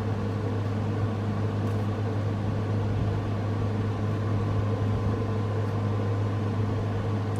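Steady low hum with an even hiss over it, unchanging throughout: constant background machine or electrical noise in the room.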